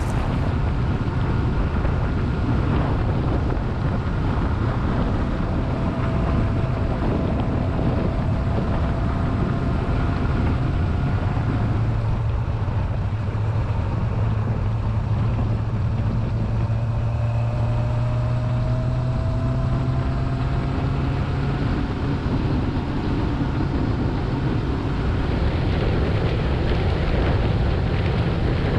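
Motorcycle engine running steadily while riding, with wind rushing over the microphone; the engine note drifts slowly up and down in pitch.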